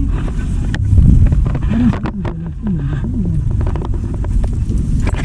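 Steady low rumble of a heavy machine's engine running, with scattered sharp knocks and faint voices.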